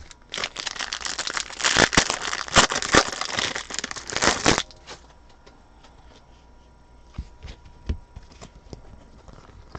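Foil wrapper of a trading card pack being torn open and crinkled, a dense crackling for about four seconds. After that come a few faint taps of cards being handled.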